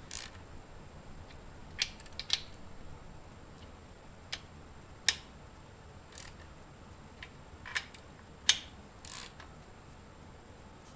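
Scattered sharp metal clicks and clinks, about ten spread unevenly, from a ratchet and socket on a Chevy 235's main bearing cap bolts as they are started and run down snug, not yet torqued.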